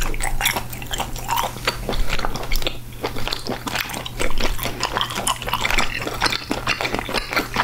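Close-miked chewing of a piece of steamed blood clam: many quick mouth clicks in a steady run, over a faint low steady hum.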